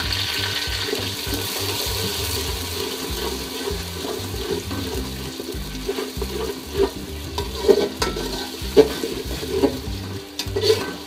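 Onions and ginger-garlic paste sizzling in hot oil in an aluminium pot while a metal spatula stirs through them. From about halfway there are a few short, louder scrapes and knocks of the spatula against the pot.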